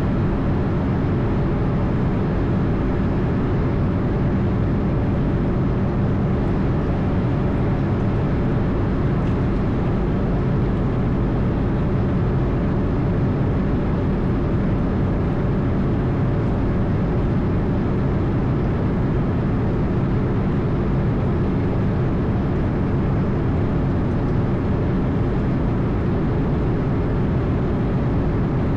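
Steady cockpit noise of an Airbus A220 in flight: a loud, even drone of airflow and its Pratt & Whitney geared turbofan engines, with a faint steady whine.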